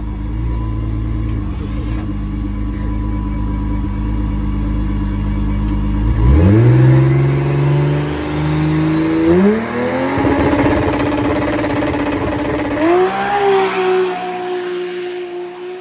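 Drag car's engine running at a steady low note, then launching about six seconds in and pulling hard down the track. The pitch climbs sharply three times, each climb settling into a steadier note, and the sound fades near the end.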